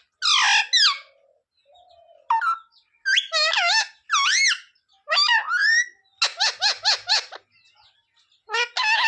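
Pet green parrot calling and chattering in a string of short, high-pitched, speech-like phrases whose pitch slides up and down, with a rapid run of repeated notes about two-thirds of the way through.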